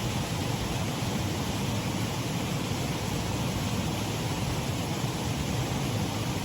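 Shallow waterfall on a mill race stream: water running steadily over the drop, a constant rushing with a deep low rumble.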